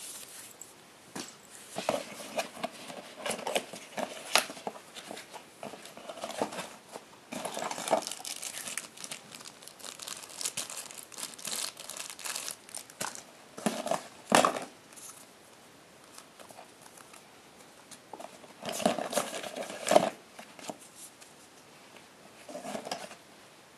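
Packaging being handled and opened by hand: irregular crinkling and tearing in bursts, busiest for the first dozen seconds, then a few sharp crackles and a last rustle near the end with quiet gaps between.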